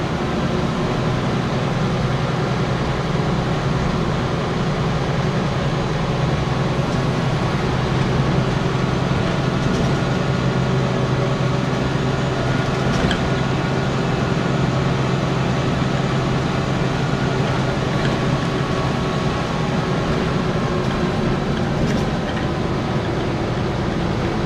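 Diesel engine of a Scania N94UB single-deck bus running at a steady speed under way, a steady low drone, with a few faint clicks.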